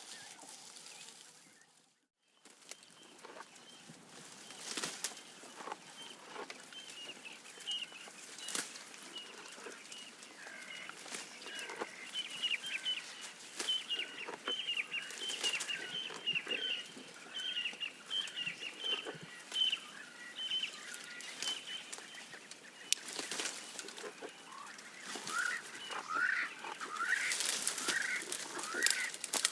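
A giraffe browsing, with irregular crunching, clicking and rustling of leaves as it eats, while birds call: a long run of quick repeated chirps through the middle and a string of short falling calls near the end. The sound drops out briefly about two seconds in.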